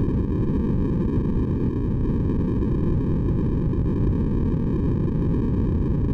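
Steady, unchanging deep white-noise sleep sound, strongest in the low range, with a slightly hollow, phased colouring.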